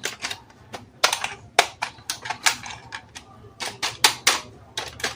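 Hard plastic toy parts being handled, clicking and snapping: a quick, irregular run of sharp clicks, several a second.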